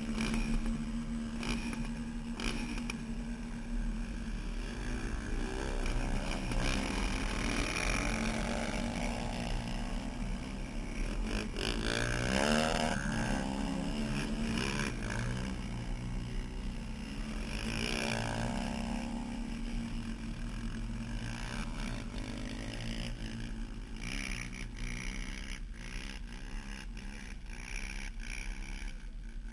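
Off-road vehicle engine running on and off the throttle, its pitch rising and falling, most clearly about twelve and eighteen seconds in, over a steady hiss.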